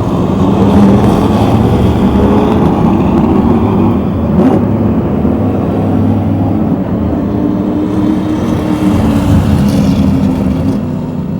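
Engines of several stock race cars running together on the track, a steady loud rumble with engines revving up and down.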